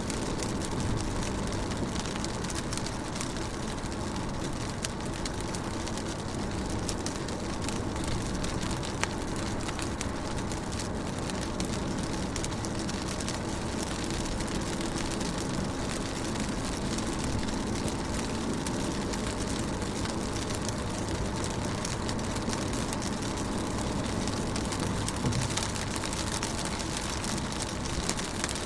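Steady rain on a car's windows and body, heard from inside the car: an even hiss thick with small drop ticks over a faint low steady hum.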